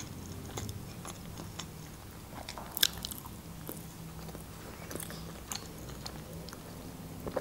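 Close-miked mouth sounds of a person chewing food: scattered short wet clicks and smacks, the sharpest a little under three seconds in, then drinking juice from a glass.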